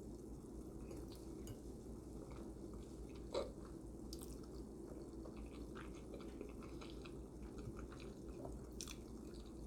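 Faint eating sounds: quiet chewing of manicotti with scattered small wet mouth clicks, and one louder short sound about three and a half seconds in.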